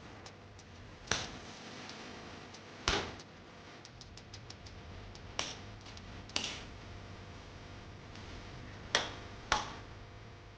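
Knife strokes chopping on a cutting board: six separate sharp knocks at uneven intervals, two of them close together near the end.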